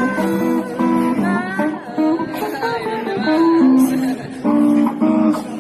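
Guitar on the Guitarralinda guitar bike played solo: a single-note melody with bent and wavering notes, then a couple of strummed chords near the end.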